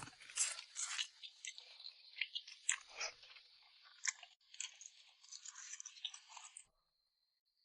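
Close-miked chewing and mouth sounds of a person eating, with quick crisp crackles and wet clicks. The chewing cuts off suddenly near the end.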